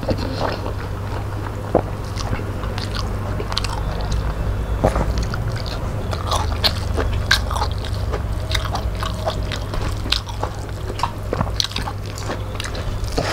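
Chewing and mouth smacking of people eating rice and fish curry with their hands, with many short wet clicks and the squish of fingers mixing rice on steel plates. A steady low hum runs underneath.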